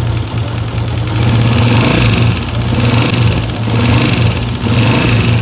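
2003 Honda CG125's single-cylinder four-stroke engine running with strange noises from the cylinder head, its level swelling about once a second. The noise comes from a pushrod whose end has broken off, the broken piece having fallen into the engine.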